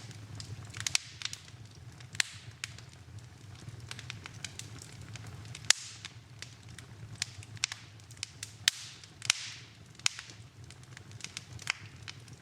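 Wood fire in a fireplace crackling, with sharp pops at irregular intervals, the loudest a little before halfway, and a few brief hisses, over a low steady rumble.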